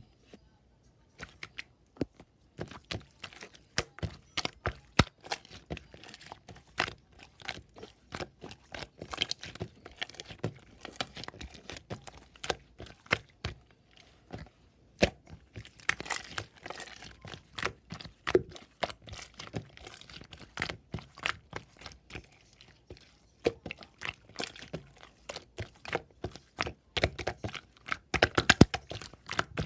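Close-up handling noise: rapid, irregular crinkling, crackling and tearing. It starts about a second in and goes on without a break.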